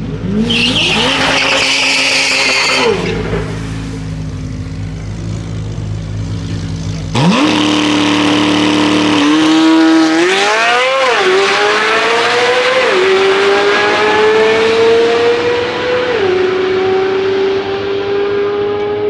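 Drag-racing car engines with tire squeal: an engine revs up over a low idle rumble early on. About seven seconds in, a car launches and accelerates down the strip, its engine pitch climbing and dropping at each of three upshifts.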